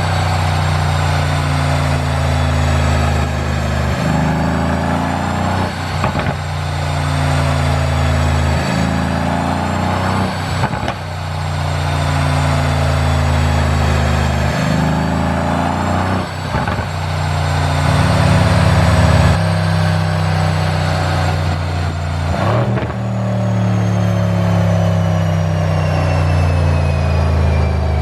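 Mercedes-AMG C63 Coupe's twin-turbo 4.0-litre V8 exhaust, with a tune for overrun pops. The engine note rises and falls again and again, and sharp cracks come every few seconds.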